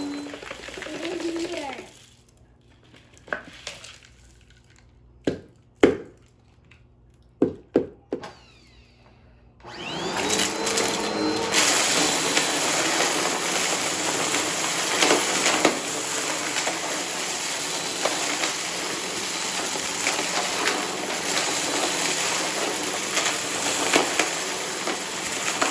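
Upright vacuum cleaner switched off, its motor winding down, followed by a handful of sharp clicks and knocks in the quiet. About ten seconds in, a vacuum switches on and runs steadily with a constant crackle of crunchy debris being sucked up.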